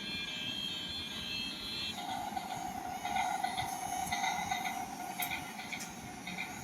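Train running with a steady rumble; about two seconds in a steady high tone joins it and holds for roughly three seconds before fading, with scattered higher squeals and clicks.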